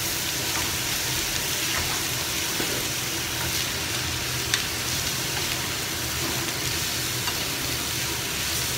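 Sliced French beans and carrot sizzling in a hot wok with minced pork as they go in and are stirred with a spatula: a steady frying hiss, with a few sharp clicks of the spatula against the pan, the loudest about four and a half seconds in.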